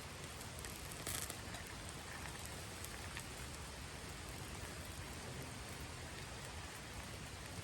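Campfire burning, with a steady hiss and scattered small crackles and a brief louder crackle about a second in, as paper and scraps burn in it.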